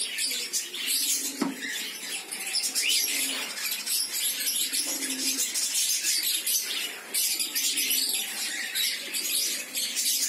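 Young cockatiels, about five weeks old, chirping and chattering with scratchy high calls, mixed with many small clicks and rustles.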